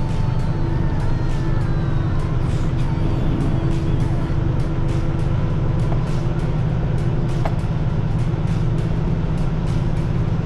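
Semi-truck's diesel engine running low and steady, heard from inside the cab as the rig backs slowly, with a run of faint rapid clicks over it.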